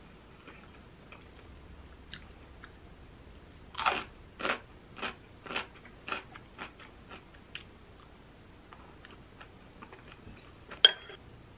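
A person chewing a mouthful of food close to the microphone, about two crisp chews a second for a few seconds, fading out. Near the end, a single sharp clink of metal cutlery against the ceramic bowl.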